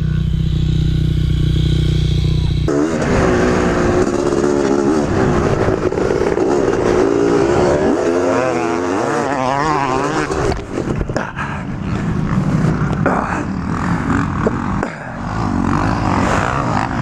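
A Honda CR500 dirt bike's two-stroke single-cylinder engine revving, its pitch wavering up and down. It breaks up with knocks and brief drops in loudness in the later seconds. Before it, for the first few seconds, there is a steady low engine drone.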